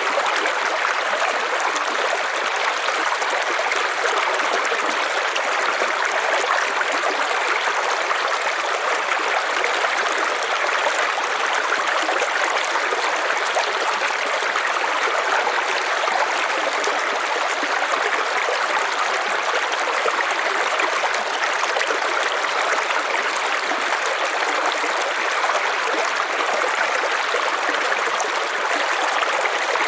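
River water flowing steadily over stones, an even rushing and burbling with no breaks.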